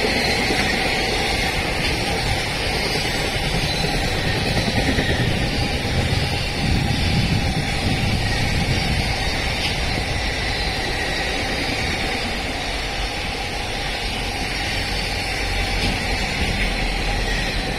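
Freight train of container wagons running through the station behind an EF210-300 series electric locomotive: a steady rolling rumble of steel wheels on rail that goes on without a break.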